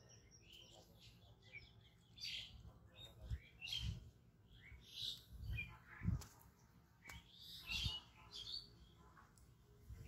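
Birds chirping, with many short high calls scattered throughout, and a few soft low thumps.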